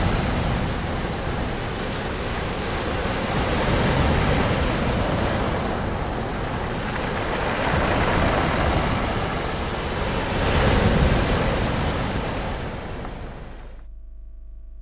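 Ocean surf: waves swelling and washing in slow surges a few seconds apart, the loudest about eleven seconds in. About a second before the end the surf drops away abruptly, leaving a faint low hum.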